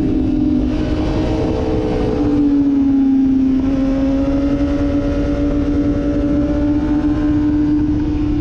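Sportbike engine running at high, fairly steady revs on track, its pitch easing down slightly about two seconds in and then holding, with wind rushing over the microphone.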